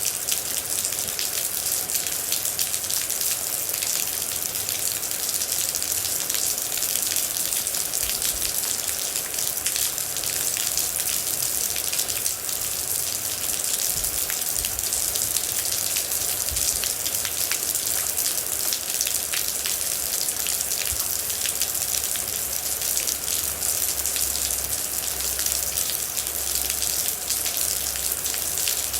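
Steady rain falling, a dense hiss with many distinct drops ticking through it and a low rumble beneath at times.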